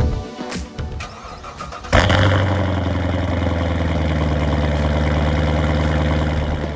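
Chevrolet C7 Corvette's 6.2-litre V8 starting: a sudden loud flare about two seconds in, then settling straight into a steady idle through the quad exhaust. Background music plays before the start.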